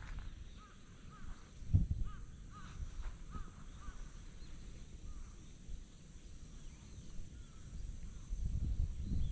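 A bird calling outdoors in a quick series of short, repeated notes, about two a second, over a low rumble with a couple of dull thumps.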